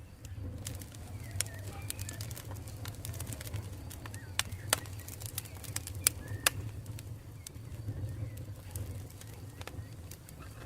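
Campfire burning: wood crackling and popping irregularly, with a few sharp louder pops in the middle, over a steady low rumble of the flames. Faint high chirps sound in the background.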